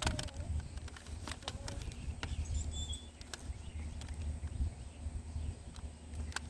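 Outdoor ambience: a steady low rumble with scattered short clicks, and a brief high chirp about halfway through.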